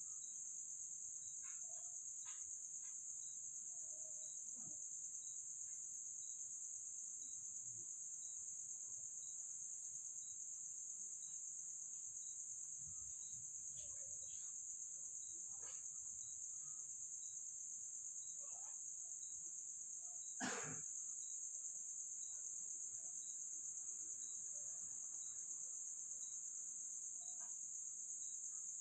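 Steady high-pitched chorus of night insects, with a faint regular ticking a little slower than once a second. One sharp click or knock stands out about twenty seconds in, among a few faint scattered small noises.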